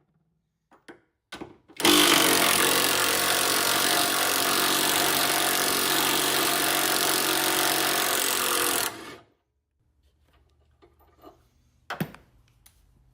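Bauer cordless impact wrench running without a break for about seven seconds on a tight bolt, starting about two seconds in and cutting off suddenly. A few light clicks come before it, and a sharp knock comes near the end.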